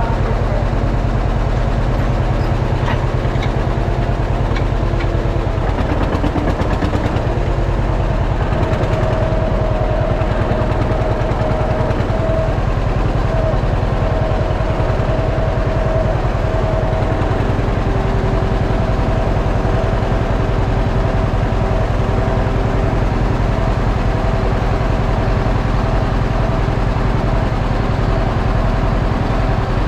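Tractor engine running steadily, with a faint whine whose pitch shifts a couple of times.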